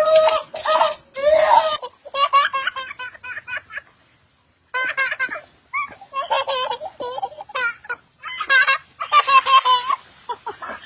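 A young child laughing hard in repeated bursts of giggles, with a brief break about four seconds in.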